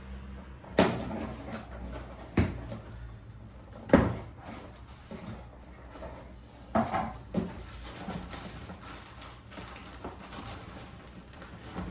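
Boxes and packaging being handled and set down: several knocks and thuds, the loudest about four seconds in, with rustling between.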